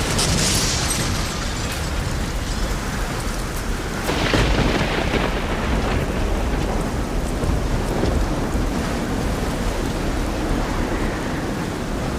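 Steady heavy rain with a low rumble underneath; the rain swells louder near the start and again about four seconds in.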